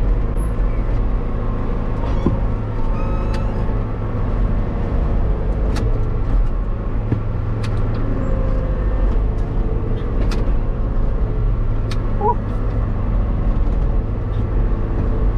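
Tractor engine running steadily at a constant low hum, with scattered light clicks and rattles.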